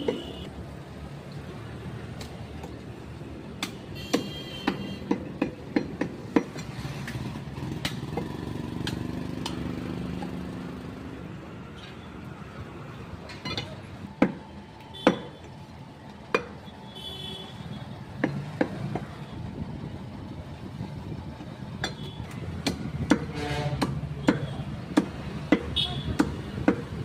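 Meat cleaver chopping mutton: sharp, irregular chops, some in quick runs of several strikes.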